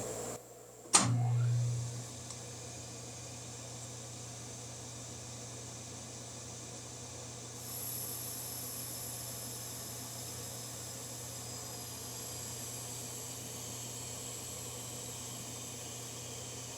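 A sharp click about a second in, then a steady machine hum with hiss; a higher whine joins about eight seconds in.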